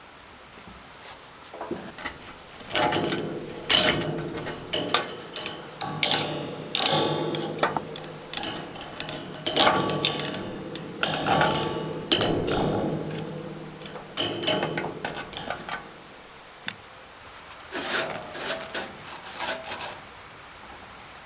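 Tools knocking and scraping on metal, with ringing clanks. It comes in a long busy spell starting about two seconds in and a shorter one near the end.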